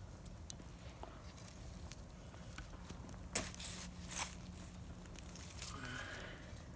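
Bonfire crackling faintly with scattered pops, two louder snaps about three and a half and four seconds in.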